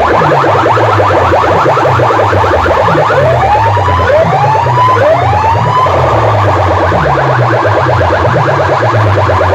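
Loud, distorted electronic DJ music blasting from a competition sound-system speaker stack: a fast buzzing pattern over a pulsing bass, with three rising siren-like sweeps about halfway through.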